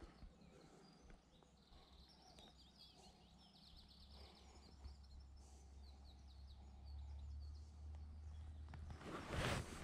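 Quiet riverside ambience: a small bird sings faint, quick chirping phrases in the first half, under a low wind rumble on the microphone that grows in the second half. Near the end comes a short, louder rush of noise.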